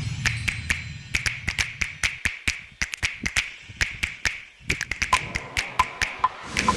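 Light, sharp taps in an irregular run, about three or four a second, with a short gap in the middle.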